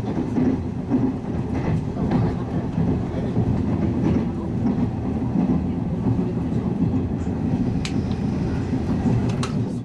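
Toyama Chiho Railway 10030 series electric train running at speed, heard from inside the passenger car: a steady low rumble of wheels on rail, with a few sharp clicks near the end.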